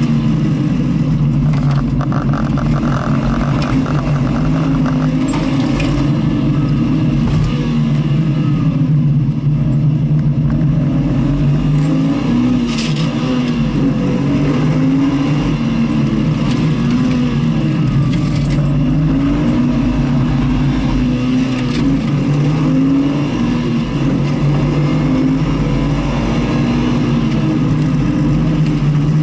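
A vehicle's engine running hard on track, its revs rising and falling over and over, over steady wind and road noise.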